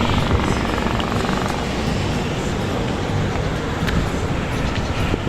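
Steady rush of wind and road noise heard while riding a bicycle along a road, with a few faint clicks.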